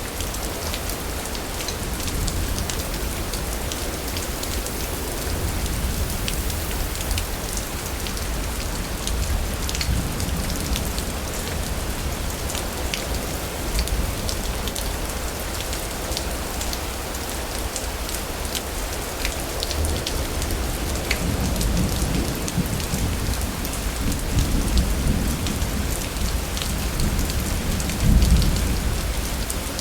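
Steady heavy rain with scattered drops ticking on a surface, and low rolls of thunder swelling in the second half, the loudest near the end.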